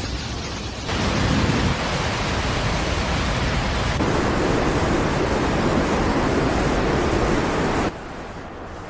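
A loud, steady rushing noise with no clear tone or rhythm, made of several clips cut together: it jumps louder about a second in, changes character at about four seconds, and drops to a quieter hiss near eight seconds.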